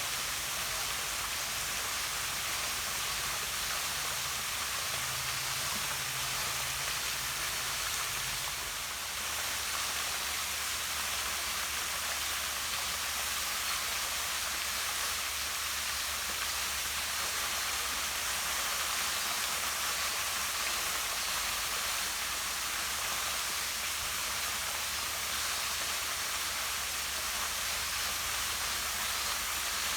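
Small waterfall splashing steadily down a rock face into a pond: an even, unbroken rush of falling water.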